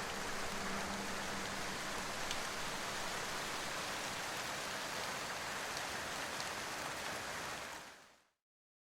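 Steady rain falling, a dense even patter with a few held music notes dying away in the first two seconds. The rain fades out quickly about eight seconds in.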